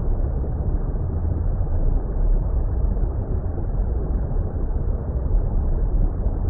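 Deep, steady underwater-style water rumble. It is a low, even noise that is heaviest in the bass and has no high end.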